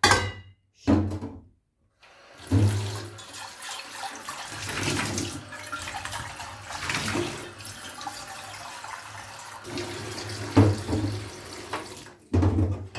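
Kitchen tap running into a sink for about ten seconds, starting about two seconds in. A few knocks of handling come just before the water starts and again near the end.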